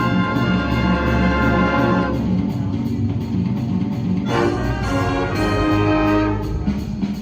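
Scholastic winds ensemble playing: brass and woodwinds hold a full chord that breaks off about two seconds in, and a new chord enters about four seconds in, over a repeating low pulse.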